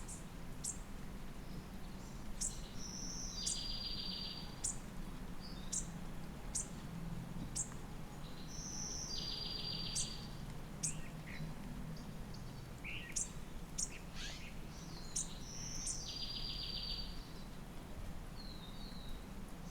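Woodland songbirds calling: a short, even trilled song comes three times, about six seconds apart, with sharp thin high call notes scattered in between. A faint low steady hum runs underneath.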